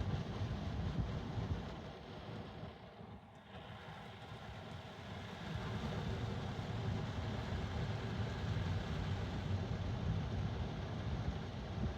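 Belanger Vector car wash arms spraying water onto the car, heard from inside the cabin as a steady rushing hiss over a low rumble. The spray eases off about two seconds in and builds back up a couple of seconds later.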